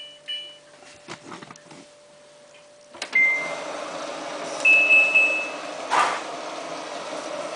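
Samsung WF8804RPA washing machine in service mode: its control panel beeps at the start, then about three seconds in it clicks, beeps, and water starts rushing into the drum with a steady hiss as it fills before the cycle. Another beep comes near five seconds, and a knock a second later.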